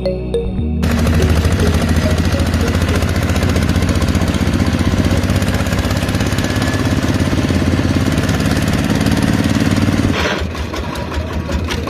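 The small motor of a homemade miniature tractor starts up about a second in and runs steadily with a fast, buzzing pulse, then drops to a slower, quieter putter near the end.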